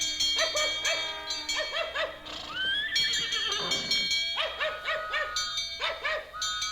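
Recorded sound effects of a horse-drawn fire engine on the run. A dog barks rapidly over a clanging bell whose strikes ring on, and a horse whinnies about two seconds in with one call that rises and then falls away.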